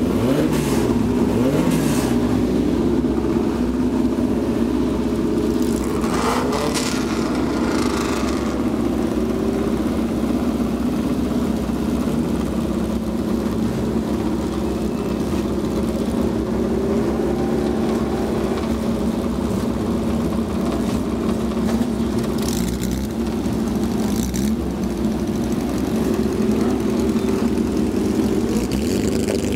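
Several historic sports-car engines idling together in a starting lineup, with a few brief revs.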